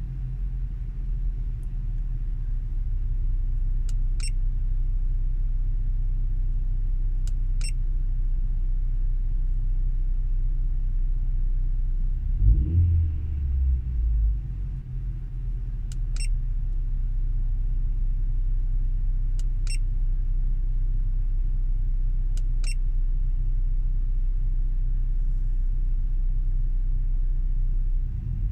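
Turbocharged car engine idling cold at a raised idle, heard from inside the cabin as a steady low rumble. About halfway through it swells briefly and rises and falls in pitch. Six short high ticks sound a few seconds apart.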